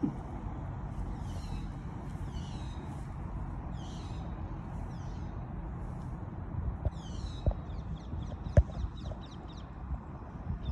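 Small bird calling: a high call sweeping downward, repeated about once a second, then a quick run of short high notes from about two-thirds of the way through. A steady low rumble lies underneath, with a couple of sharp knocks near the end, the loudest about 8.6 s in.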